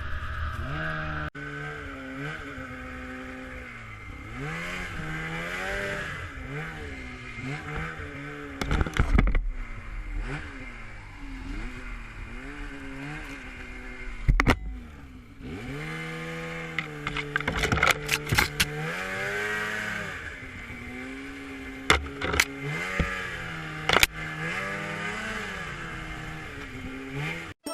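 Small off-road vehicle engine revving up and down over and over, its pitch rising and falling, with sharp knocks and clatters scattered through it.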